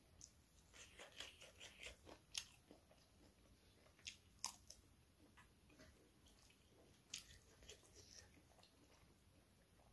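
Faint close-up chewing and biting: a person eating with the mouth near the microphone, with a scattering of short crisp crunches, the sharpest about two and a half and four and a half seconds in.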